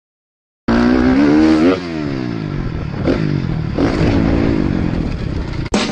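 Motocross bike engine cutting in at high revs, then the revs falling off sharply about a second later. It runs on at changing revs.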